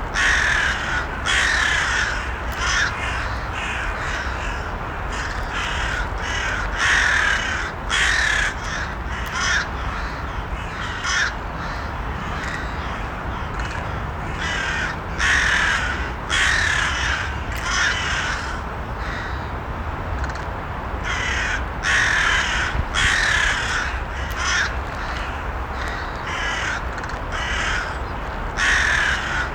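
Crows cawing repeatedly, harsh calls coming in irregular bunches every second or two, over a steady low background noise.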